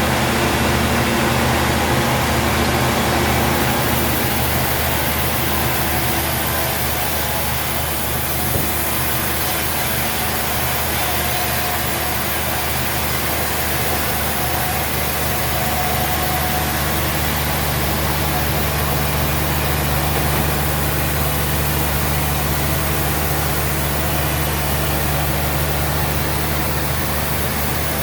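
Sawmill machinery running steadily: an engine's low, even hum under a constant hiss.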